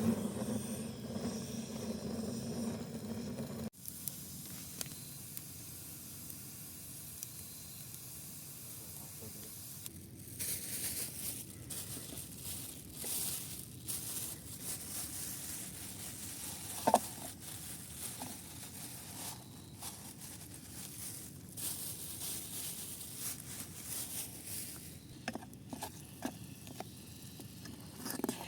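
Food sizzling in oil in a pan over a wood fire, with irregular surges of hiss and one sharp crackle partway through.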